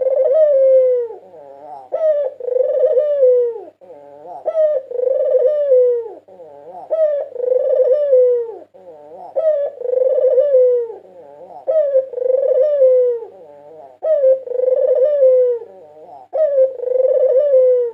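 White puter dove (Barbary dove) cooing, the same phrase repeated about every two seconds: a short clipped note, then a drawn-out coo falling in pitch.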